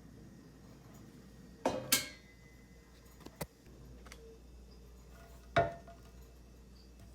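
Hard objects clinking and knocking as they are handled and set down: a loud pair close together a little under two seconds in, a fainter pair around three and a half seconds, and one more loud clink near six seconds.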